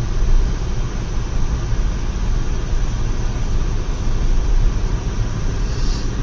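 Steady road and engine noise inside a moving car: a constant low rumble with a hiss over it.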